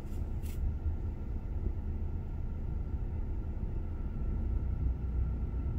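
Steady low rumble of a Subaru Outback idling at a standstill.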